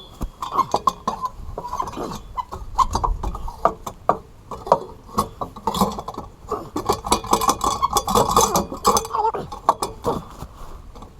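Repeated metallic clanks and clinks, some ringing briefly, as a steel exhaust pipe is handled and knocked about.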